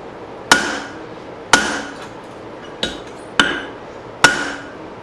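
Big forging hammer striking a hatchet head of leaf-spring steel on an anvil, five blows about a second apart, one lighter than the rest, each with a brief metallic ring. The blows are drawing out the axe head behind the blade.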